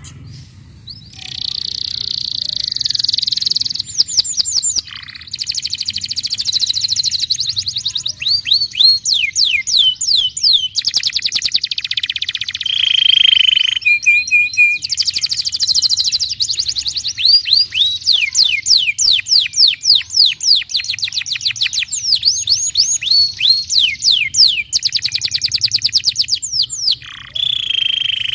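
Domestic canary singing a long, continuous song that starts about a second in: fast trills of repeated downsweeping notes alternating with buzzy rolls and short held whistles.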